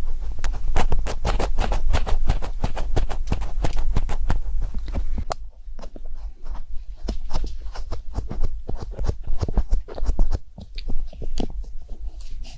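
Close-miked ASMR trigger sounds: a dense run of quick, crisp clicks and crackles over a low hum, thinning out to sparser, quieter clicks about five seconds in.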